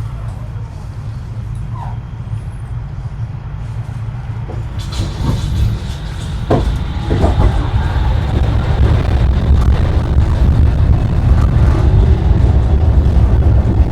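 Tram ride noise heard from inside the car: a steady low rumble of wheels and running gear that grows clearly louder from about five seconds in, with a few sharp knocks and clatters as it builds.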